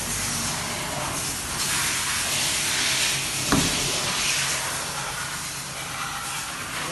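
Water jet spraying onto a car during a wash: a steady hiss that swells and eases, with one sharp knock about three and a half seconds in.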